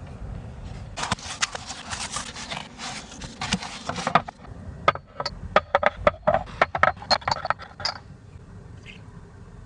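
Objects being handled: about three seconds of rustling and scraping, then a run of quick clicks and light knocks, with a low rumble underneath.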